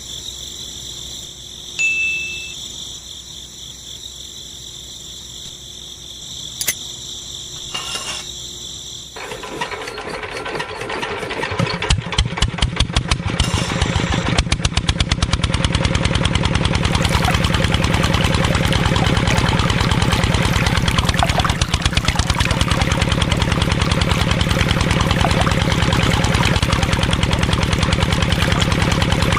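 A small diesel engine starts up: after a faint steady whine and a short beep, it builds up over a few seconds and settles into a steady, rapid thumping run.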